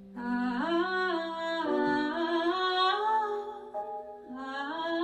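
A woman's voice singing a wordless melody in two phrases, over a held low accompanying note, as the song's introduction.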